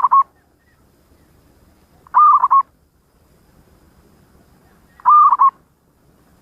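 Zebra dove (perkutut) cooing its song in short phrases of a few quick notes, about two and a half to three seconds apart. The tail of one phrase is heard at the start, then two full phrases follow.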